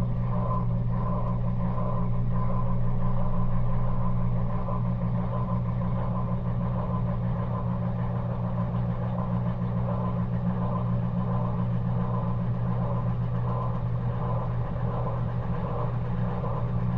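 Maytag washing machine running a cold wash cycle: a steady, low motor hum with a fainter rippling sound above it, swelling slightly a few seconds in.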